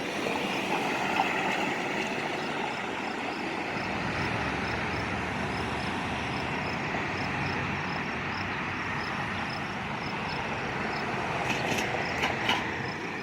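BNSF freight train rolling past over a grade crossing: a steady rumble of wheels on rail, with a faint crossing bell dinging evenly throughout and a few sharp clicks near the end.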